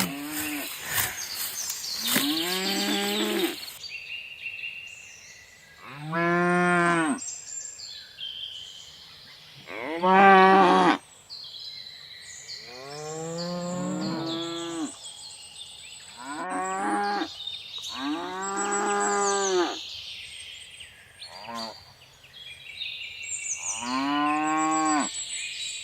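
Cattle mooing one after another in a pasture: about eight long moos a second or two apart, the loudest about ten seconds in.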